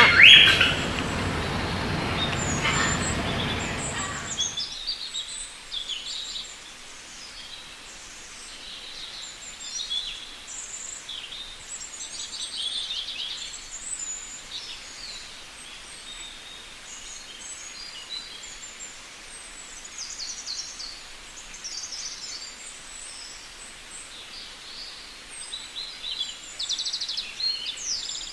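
Rose-ringed parakeets calling: harsh squawks over a loud, noisy background for the first four seconds or so. The background then drops away suddenly, leaving many short, high chirps and calls over a quieter hiss.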